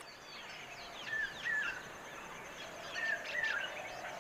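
Birds chirping over a soft, steady background. One bird gives a short call twice in quick succession about a second in, and again around three seconds in, with fainter, higher chirps from other birds throughout.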